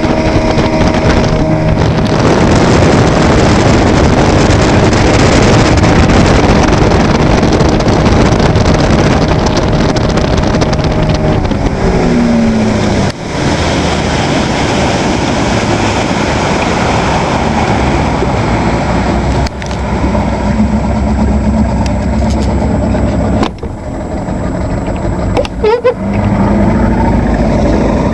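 Evinrude 120 hp outboard motor running under way: a loud, noisy rush at high revs, then the revs fall about twelve seconds in and the motor settles into a steadier, lower-pitched run. There are a few sudden brief drops in the sound along the way.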